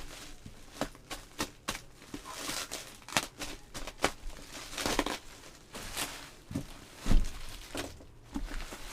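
Parcel packaging being handled and opened by hand: irregular crinkling, rustling and tearing of the wrapping, with a dull thump about seven seconds in.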